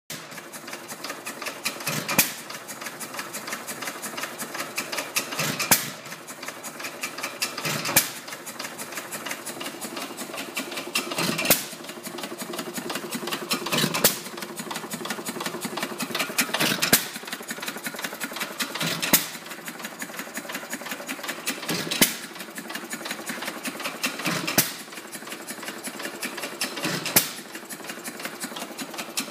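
Antique 4 HP Leader Field Force single-cylinder gas engine running as a hit-and-miss engine. It fires with a loud bang every two and a half to three seconds and coasts between the firing strokes with a fast light clatter.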